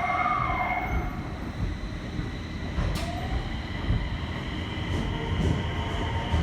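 Nagoya subway N1000-series train running, heard inside the car: the whine of its Mitsubishi IGBT inverter and traction motors over the rumble of wheels on rail. The tones shift and glide in pitch.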